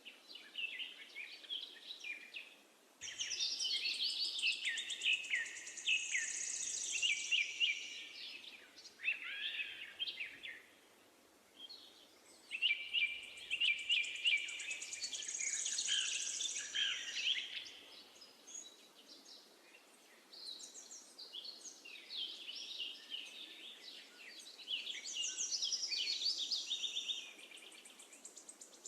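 Several songbirds singing, with bursts of rapid chirps and trills lasting a few seconds each, separated by short lulls, over a faint steady background hiss.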